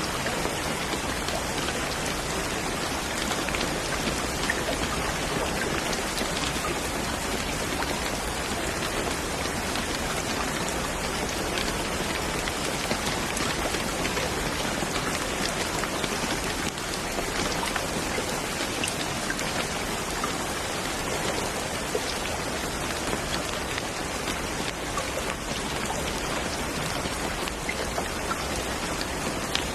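Steady rain falling, with scattered individual drops ticking through an even hiss.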